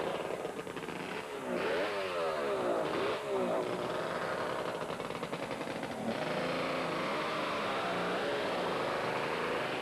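Racing motorcycle engine revving, its pitch sweeping up and down in several quick rises between about one and four seconds in, then running more steadily with smaller rises and falls.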